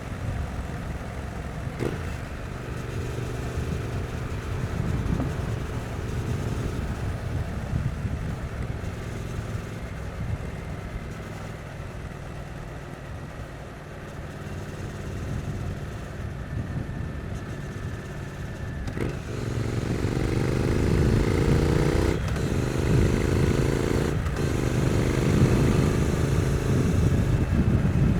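Stock 2022 Triumph Street Twin's 900 cc parallel-twin engine on the move, rising in pitch as it pulls, then easing to a quieter, lower stretch. About two-thirds of the way in it gets louder and accelerates again, with the pitch dropping sharply at two quick upshifts about two seconds apart.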